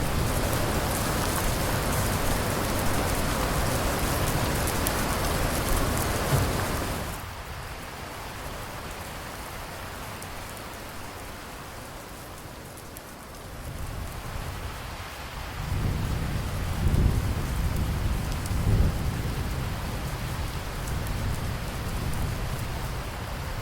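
Heavy rain hissing steadily, which drops off abruptly about seven seconds in to a lighter patter. A low roll of thunder then builds from about halfway and swells twice before fading back under the rain.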